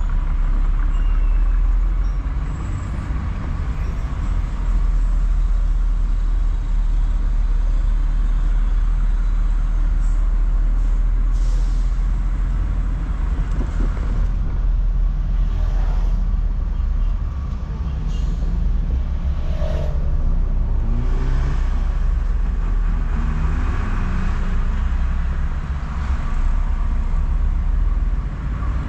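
Car cabin sound while driving: a steady low engine hum and road rumble, with a few brief hisses from about ten seconds in.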